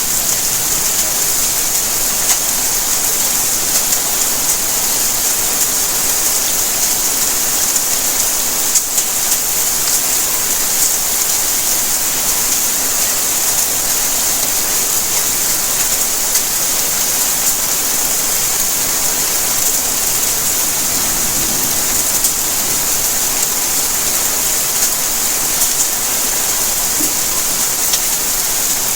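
Steady rain falling on surfaces, an even hiss full of small drop patters.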